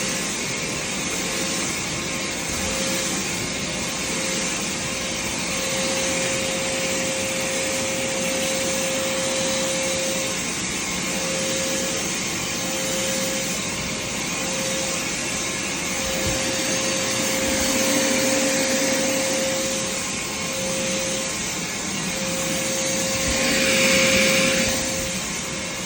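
Vacuum cleaner running steadily, a constant rush of air with a steady motor whine, swelling briefly louder and brighter near the end.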